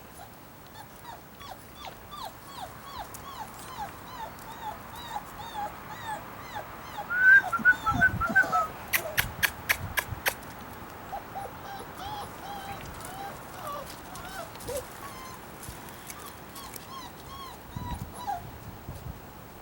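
Four-week-old puppies whimpering and squeaking in many short falling cries, several at once, getting louder and busier about seven to nine seconds in. Around nine to ten seconds there is a quick run of about six sharp clicks.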